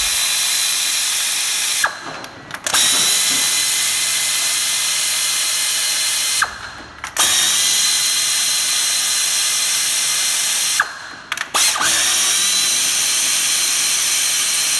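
Power tool running at full speed in long stretches of about four seconds, with a hissing high whine. It stops briefly three times, each time with a click.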